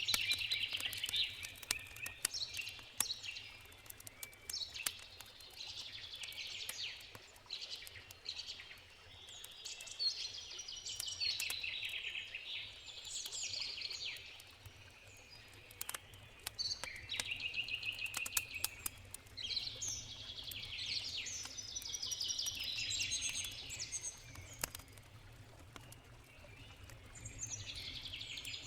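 Small birds singing in short phrases every few seconds, over scattered sharp crackles of a wood campfire and a low, steady river rush.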